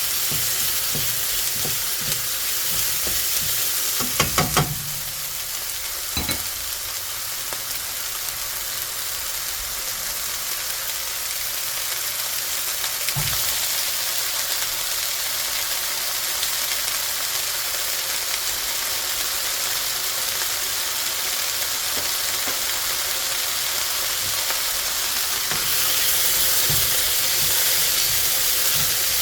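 Food sizzling steadily in a frying pan as it is stir-fried, with a quick run of sharp knocks against the pan about four seconds in and a couple of single knocks after. The sizzling grows louder near the end.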